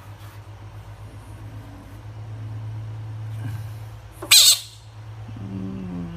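Pet frog calling: one short, loud, harsh call about four seconds in and a lower call falling in pitch near the end, over a low steady pulsing drone.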